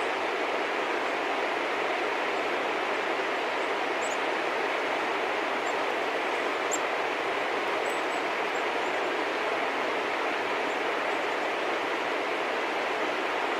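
A steady, even rushing noise with no change in level, with a few faint, short high chirps near the middle.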